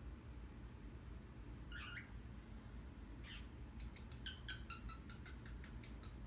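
An animal's calls: a short high call about two seconds in and another a second later, then a rapid run of short chirps, about five a second, through the last two seconds.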